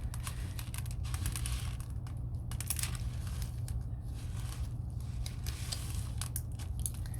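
Loose bird seed rustling and clicking as a sticky pine cone is rolled through it, in quick irregular patters over a steady low hum.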